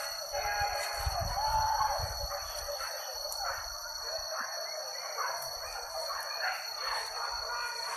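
Hunting dogs yelping and baying during a wild boar chase, with wavering cries in the first couple of seconds and shorter ones later. A steady high-pitched whine runs underneath.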